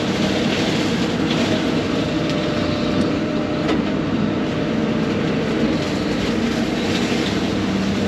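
Case 140 excavator's diesel engine running steadily under load, driving a hydraulic brush-mower attachment that is cutting brush, with a couple of sharp snaps a little after three seconds in.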